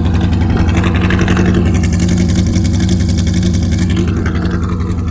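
1971 Ford F-250 Highboy truck engine running steadily, with an even low hum and a rushing noise above it.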